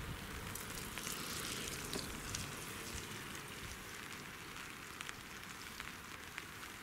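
Steady outdoor hiss with scattered faint ticks, slowly getting quieter.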